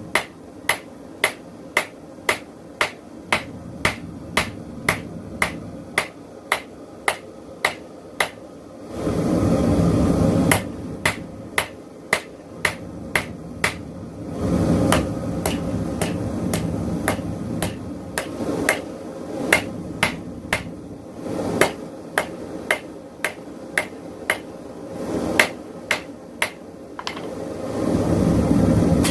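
Hand hammer striking a hot railroad spike on an anvil, about two sharp ringing blows a second in steady runs. Between the runs a steady rushing noise from the propane forge comes up three times, the spike going back in for reheating.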